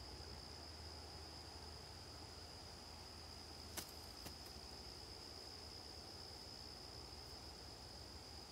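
Steady, faint, high-pitched insect chorus, like crickets, continuing without a break. Two sharp clicks about half a second apart near the middle, the first the loudest sound.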